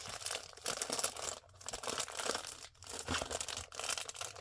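Packaging crinkling and tearing as it is handled and pulled open by hand, a dense crackle that pauses briefly twice.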